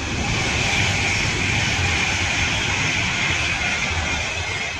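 A train passing through the station: a loud, steady rush of rolling noise with a high whine over it, swelling in at the start and easing off near the end.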